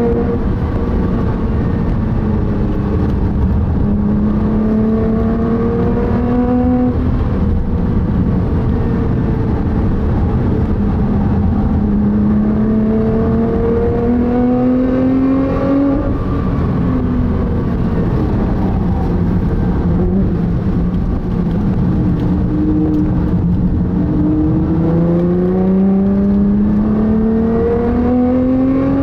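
Nissan GT-R SpecV's twin-turbo V6 heard from inside the cabin, pulling hard under full throttle with its pitch climbing steadily through each gear. It drops sharply at upshifts about 7 and 16 seconds in, then climbs again near the end. Dense tyre and road rumble runs underneath.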